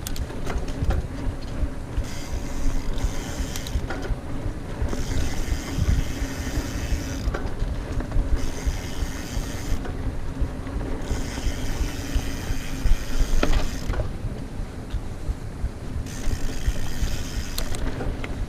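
Mountain bike running on a dirt trail: constant low tyre and wind rumble, with the rear hub's freewheel ratcheting in stretches of a second or two while the rider coasts, and scattered rattles and knocks from the bike.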